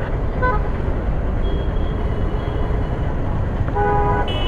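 Steady low rumble of a Royal Enfield Classic 350 single-cylinder motorcycle being ridden in traffic, with road and wind noise. Vehicle horns honk over it: a short beep about half a second in, then a longer horn blast near the end, followed right away by a higher-pitched one.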